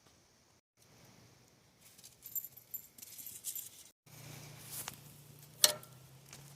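Light metallic clinks and rattles of hand tools and bolt hardware being handled, with one sharp click about five and a half seconds in.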